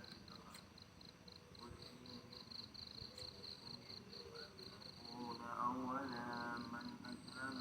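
Cricket chirping steadily in a fast even pulse, about five chirps a second. Faint distant voices come in about two thirds of the way through.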